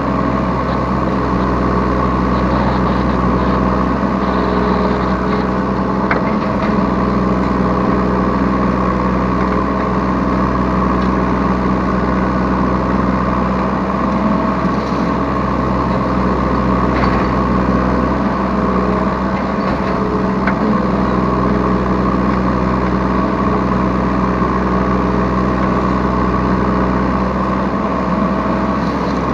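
Yanmar B3 Sigma 3-ton mini excavator's diesel engine running steadily as the machine works, heard close up from the operator's seat.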